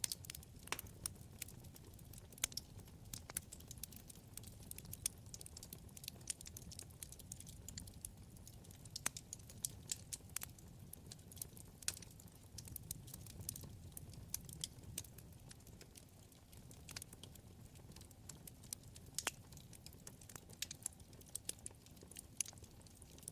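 Wood fire burning in a fireplace: many sharp crackles and pops at irregular intervals over a low, steady rumble of the flames.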